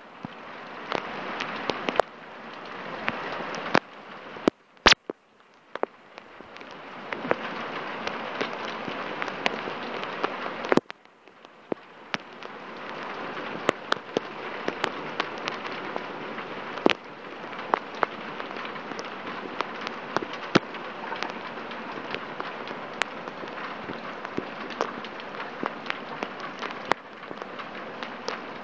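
Heavy downpour: a steady hiss of torrential rain with frequent sharp taps of drops striking close by. The rain sound dips briefly twice and builds back up.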